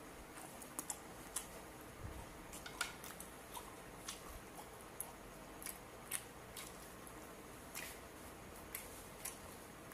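Faint close-up chewing with the mouth closed: a string of small, sharp, wet mouth clicks and smacks, irregular at roughly two a second, over low room hiss.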